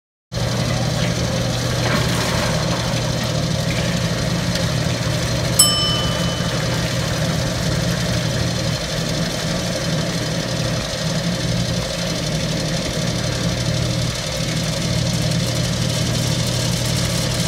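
1939 Bennett 541 gas pump running and pumping diesel: a steady hum from its motor and belt-driven pumping unit. A single bell-like ding rings out about five and a half seconds in.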